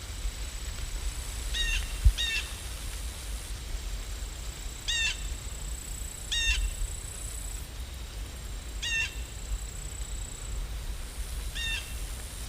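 A bird calling in short single calls, six in all, a couple of seconds apart, over a steady hiss of rain. A single low bump about two seconds in.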